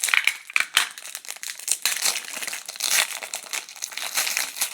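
A hockey trading-card pack wrapper being crinkled and torn open by hand: a dense, irregular run of crackles that goes on throughout.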